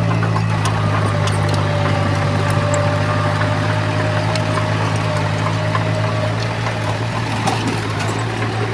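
Heavy diesel engine of an earthmoving machine running steadily, a strong even low hum with a faint steady whine above it and scattered light clicks.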